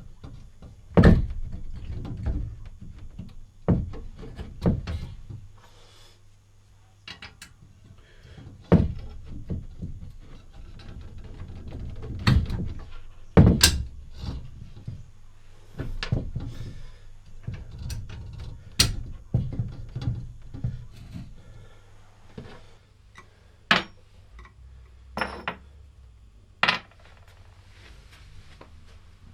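Irregularly spaced knocks, clunks and clicks, like hard parts being handled and set down on a bench, with a faint low hum underneath.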